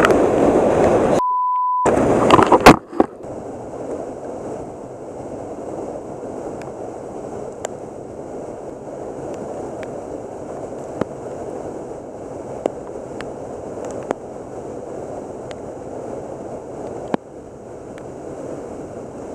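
A short censor bleep about a second in, set in loud rushing noise that ends with a sharp click. After that, steady rushing river water with scattered sharp ticks.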